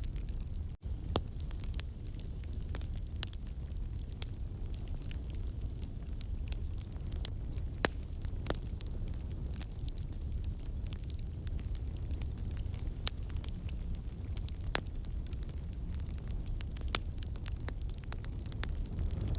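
Fireplace fire crackling: a steady low rumble of flames with scattered sharp pops and snaps, and a momentary dropout about a second in.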